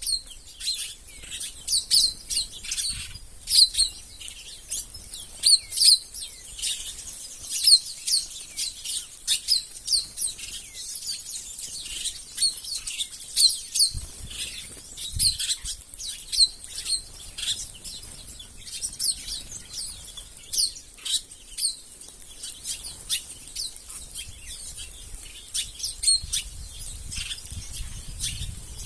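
Flock of small birds chirping, with many short, high calls overlapping almost without pause.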